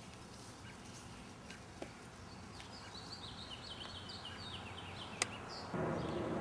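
Quiet outdoor ambience with a small bird chirping a rapid run of short notes in the middle, and one sharp click just after five seconds. Near the end a louder steady background noise sets in.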